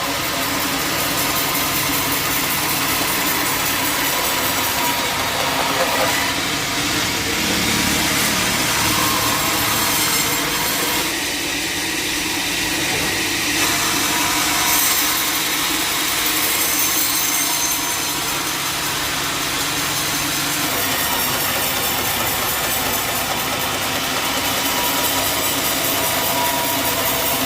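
Engine-driven sawmill cutting wood: the engine runs steadily under load while the blade rasps through the log.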